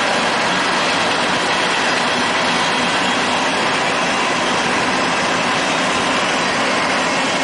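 Norfolk Southern freight train passing, a loud, steady rush of wheel and rail noise.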